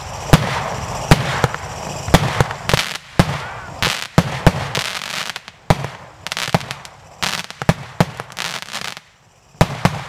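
City Lights and X-Force 15-shot consumer fireworks cakes firing: a rapid string of sharp bangs from bursting shells, about two a second, with crackling between them. Near the end there is a brief lull, then two more bangs.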